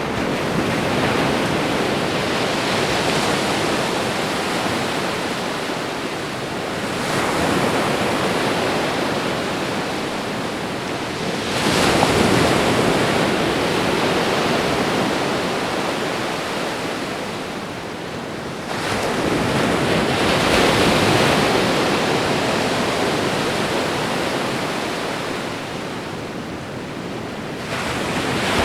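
Ocean surf washing onto a shore in a steady rush, swelling and fading as five waves break several seconds apart.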